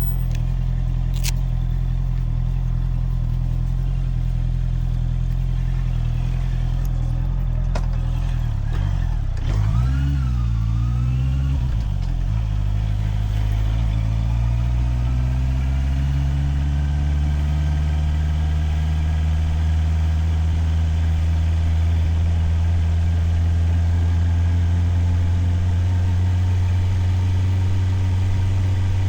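Motorcycle engine heard from the rider's helmet. It runs at a steady low note at first, wavers with brief throttle changes about a third of the way in, then its pitch climbs slowly as it gathers speed.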